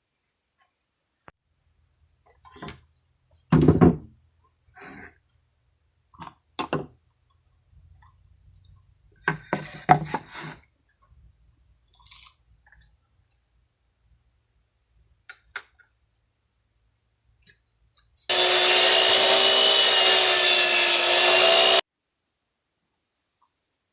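A few knocks from wood being worked. Then an electric power tool runs steadily for about three and a half seconds and cuts off sharply. Crickets chirp steadily throughout.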